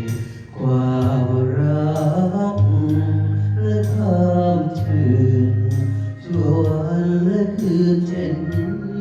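A voice singing a slow melody with long held notes that slide between pitches, over instrumental backing with a steady low note and sharp plucked or percussive ticks.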